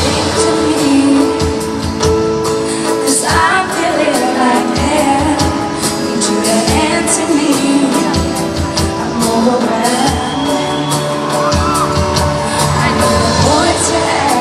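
Live pop ballad played in an arena: a female lead singer's voice gliding up and down over held band chords and drum hits.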